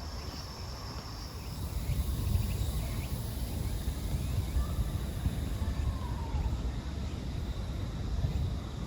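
Outdoor ambience: a steady low rumble, a little louder from about two seconds in, with a faint thin high tone in the first second and a half.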